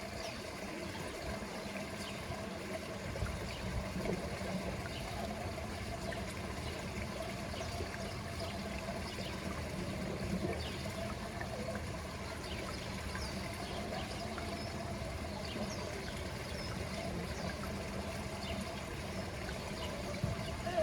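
Water trickling steadily, an even, unbroken wash of sound with faint small ticks on top.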